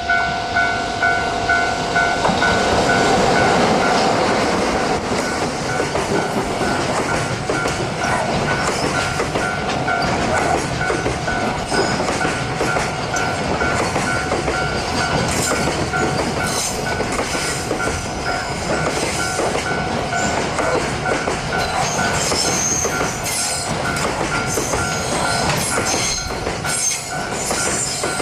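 Freight train rolling past, its wheels clattering over the rail joints with a rhythmic clack in the first few seconds. Steady tones run underneath, and from about halfway on high-pitched wheel squeal comes and goes.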